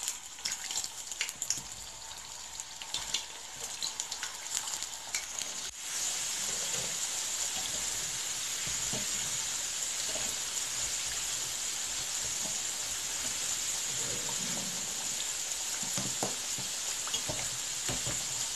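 Sliced potatoes frying in hot vegetable oil in a stainless steel pan: uneven crackling with metal spatula clicks as slices go in, then about six seconds in a louder, steady sizzle.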